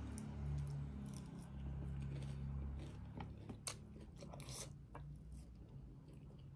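Close-up eating sounds: chewing with sharp wet clicks and smacks of the mouth, most of them in the second half. A low steady hum sits underneath for the first three seconds.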